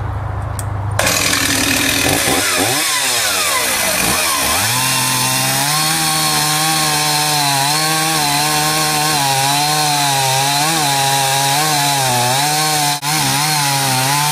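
Stihl 038 AV Super two-stroke chainsaw idling, then revved up and down a few times, then held at high speed with a slightly wavering pitch, as when cutting into wood.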